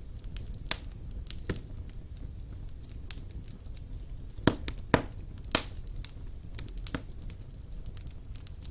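Wood fire burning in a fireplace, crackling with irregular sharp pops and snaps over a low rumble, the loudest three pops about four and a half to five and a half seconds in.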